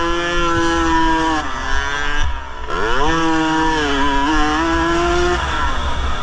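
Yamaha RX 115 two-stroke single-cylinder engine, heard on board a motocross bike. It revs hard and holds, backs off about two seconds in, climbs again and holds, then eases off near the end.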